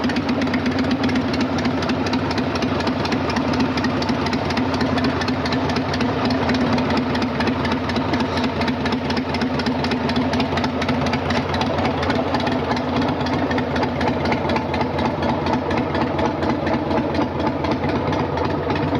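Harley-Davidson Sportster 883's air-cooled V-twin idling steadily.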